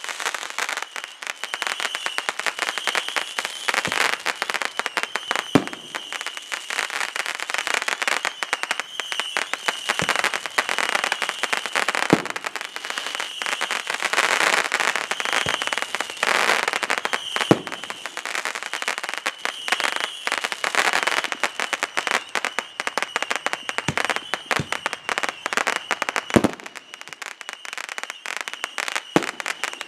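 Consumer fireworks going off: dense, continuous crackling, with a deep boom every few seconds.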